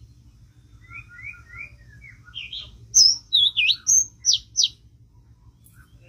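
Songbird singing: three short soft rising chirps about a second in, then a loud run of varied whistled notes, ending in two sharp falling whistles.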